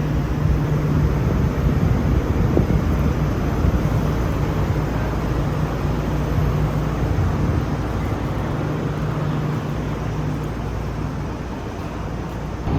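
Steady low rumble of a running vehicle with a constant low hum, easing slightly near the end.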